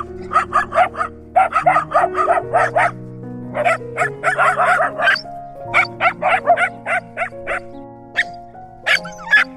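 A dog barking in quick runs of short, sharp barks, several a second, over background music.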